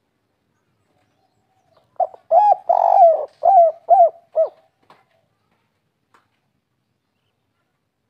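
Spotted dove cooing one phrase: a short lead-in note, a longer coo, then three short evenly spaced coos ending the phrase, the 'kuk 3' song type prized by Indonesian keepers.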